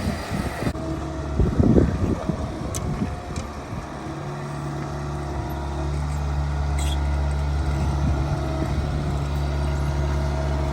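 Bobcat S66 skid steer's diesel engine running as it works the ground, with some rough rumbling early on and a steady, stronger hum from about four seconds in.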